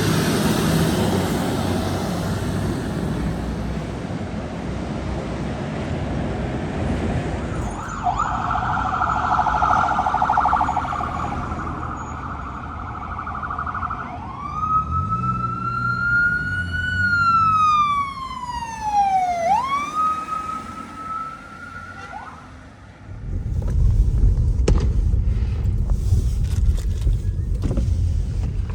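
Emergency vehicle siren: a fast warbling tone for about six seconds, then a slower wail that rises and falls in pitch, with road and engine noise before it and a heavy low rumble after it.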